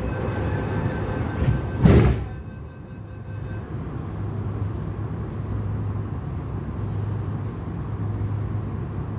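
Steady hum inside an MTR Tung Chung Line CAF electric train, broken by a short loud clatter about two seconds in, typical of the train's sliding doors.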